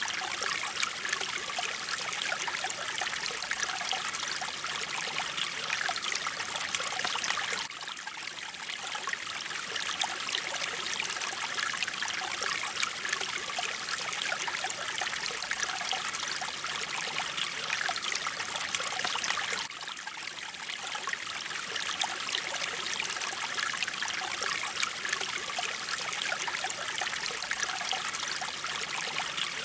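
Mountain stream water flowing and trickling steadily over rocks, a dense even rush that briefly dips in level twice.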